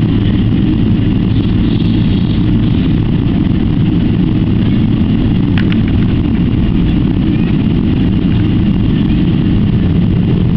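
Steady loud rumble of a Boeing 777-300ER's jet engines during takeoff, heard from inside the passenger cabin. A single short click comes about five and a half seconds in.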